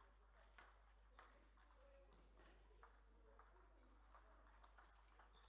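Faint sharp clicks of a table tennis ball, struck by bats and bouncing on the table, coming every half second to second as in a rally, over a low steady hum.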